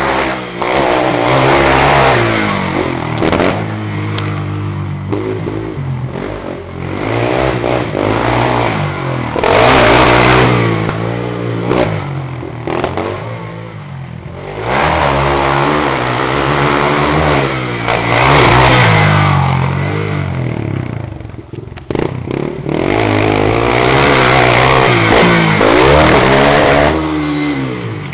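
Yamaha TT-R230's single-cylinder four-stroke engine being ridden hard, its note climbing under throttle and dropping back again and again, with a few brief lulls when the throttle is rolled off.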